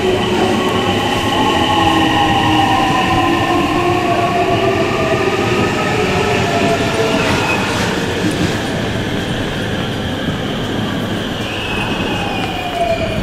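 A JR West electric commuter train running past along the platform: its motors whine in several tones that slide up and down in pitch, over steady wheel-on-rail noise and a high thin squeal.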